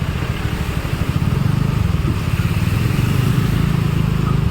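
A motor vehicle's engine running steadily on the move, a continuous low hum with rushing air noise over it.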